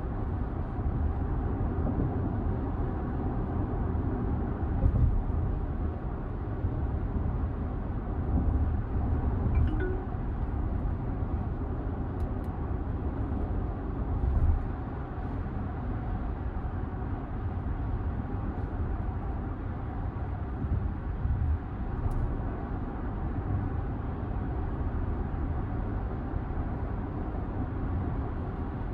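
Steady low road and tyre rumble inside the cabin of a Hyundai Ioniq 9 electric SUV cruising at highway speed, with no engine note, and a few brief louder bumps from the road surface.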